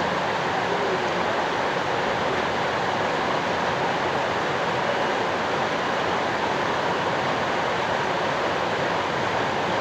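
Steady rushing water: an even hiss with no break and no change in level.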